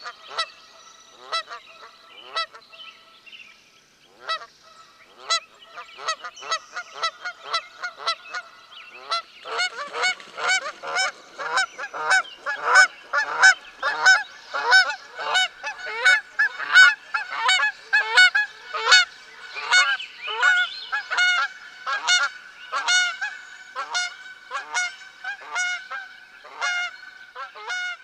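Honking of geese and swans, a blend of whooper swan, Canada goose and domestic goose calls: scattered honks at first, then from about nine seconds in a dense run of loud honks about twice a second, many calls overlapping.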